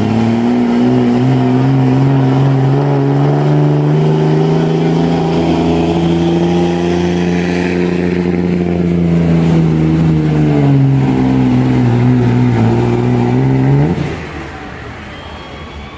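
Street-class pulling truck's engine held at high revs under heavy load during a sled pull, its pitch climbing and sagging as the load changes. About fourteen seconds in it revs up sharply, then drops off abruptly as the throttle is released at the end of the pull.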